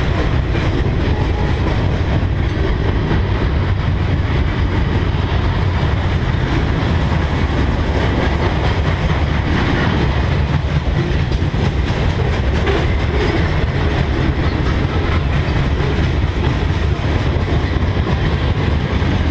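Freight train cars rolling past on the near track: a steady, loud rumble of steel wheels on the rails with rattling and clatter from the cars.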